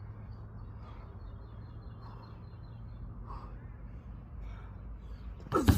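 Faint bird chirps over a steady low rumble, then a sudden loud, brief sound near the end.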